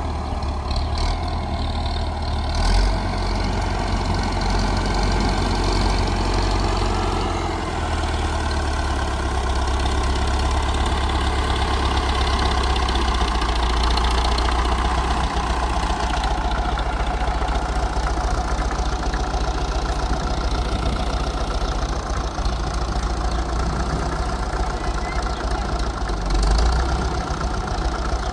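A heavy engine running steadily with a deep hum, its pitch shifting slightly about seven seconds in.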